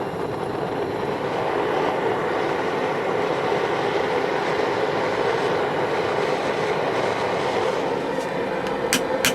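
Steady rushing noise of a forge running, even and unbroken. Near the end, sharp ringing strikes begin at an even pace.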